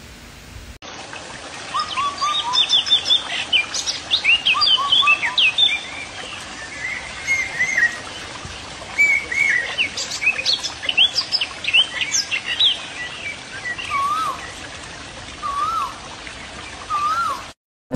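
Small birds chirping and singing: many quick sweeping chirps, with a lower, wavering whistled phrase repeated three times near the end.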